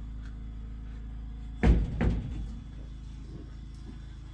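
Two heavy thumps in quick succession, like a door or lid slamming, about a second and a half in, over a steady low rumble.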